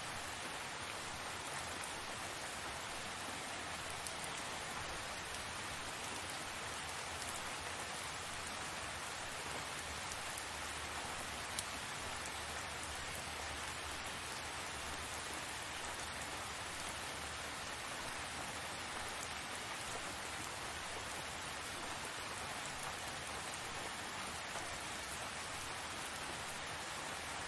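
Steady rain falling, with individual drops pattering on a surface and one sharper drop hit about eleven and a half seconds in.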